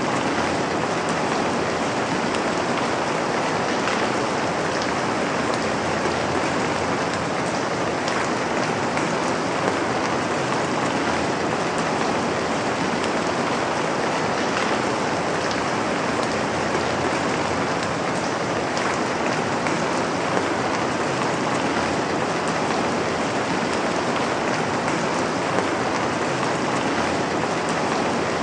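Steady rain falling, an even hiss of many drops with scattered faint patters.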